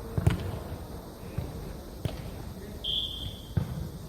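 Jokgu ball thudding as it is kicked and bounces on the court, three hits spaced about a second and a half apart, with a short high steady beep-like tone just before the last one.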